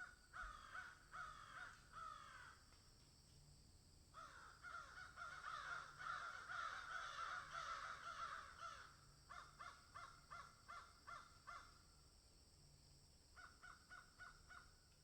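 Faint birds calling in bouts of short, falling, harsh calls. A dense stretch of overlapping calls comes in the middle, followed by quicker clipped calls at about three a second and one last short bout near the end.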